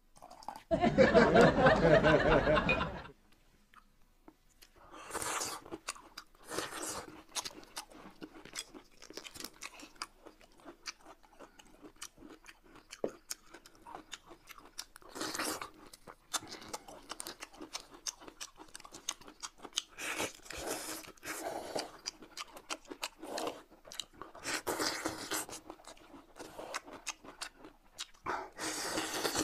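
Close-up crunchy chewing and biting of peeled bamboo shoots, in irregular bursts of crunches and clicks. It opens with a loud pitched sound lasting about two seconds before the chewing starts.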